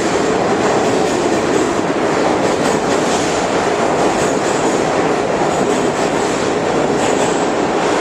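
Subway train running, a loud, steady noise of wheels clattering on the rails.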